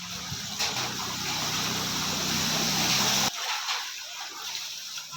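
Floodwater rushing and splashing over a steady low engine hum, which cuts off abruptly about three seconds in and leaves a softer water sound.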